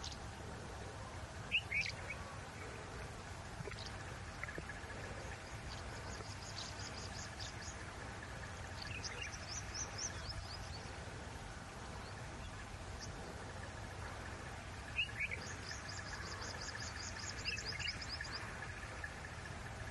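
Wild birds calling: three quick high trills of rapid repeated notes and a few sharp single chirps, over a steady low hum.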